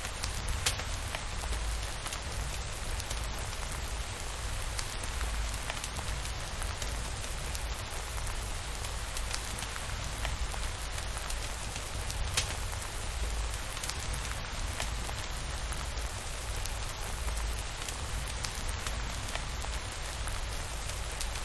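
Steady rain falling, with scattered sharp ticks of drops throughout and a low rumble underneath.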